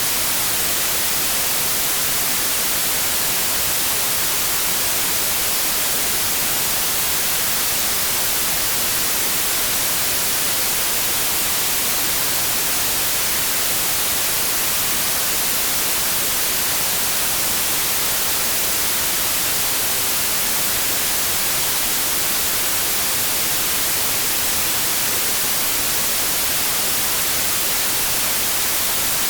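Steady, unchanging white noise: an even hiss of static with no variation.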